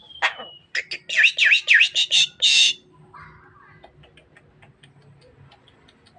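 Javan myna (jalak kebo) calling: a loud, quick run of chattering notes for about two and a half seconds, ending in one rasping note. Faint, evenly spaced clicks follow.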